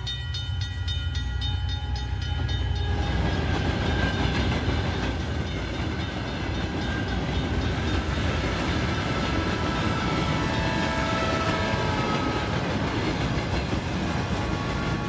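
A train passing a level crossing: a low rumble for the first few seconds, then about three seconds in the steady, louder rushing clatter of the cars going by.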